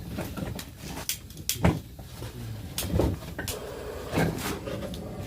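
Firewood being handled and put into a homemade wood-burning stove: a string of sharp wooden knocks and clatters, the loudest about one and a half seconds in.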